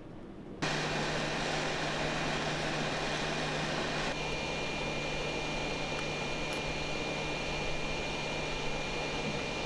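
A steady whirring, blowing noise with a constant high whine and a low hum, switched on abruptly about half a second in. Its sound shifts slightly about four seconds in.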